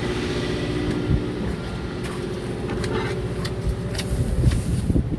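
Fishing boat's engine running steadily with a low hum, over an uneven low rumble of wind on the microphone, with a few light clicks and knocks.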